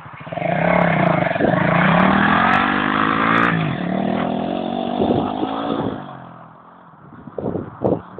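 110cc pit bike's small single-cylinder four-stroke engine revving, its pitch rising and falling, then dropping away about six seconds in. A few short knocks follow near the end.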